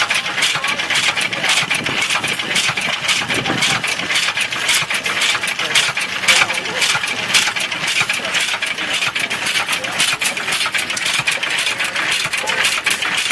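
1915 IHC Titan single-cylinder stationary gas engine running steadily, with a fast, even run of sharp clicks and clatter.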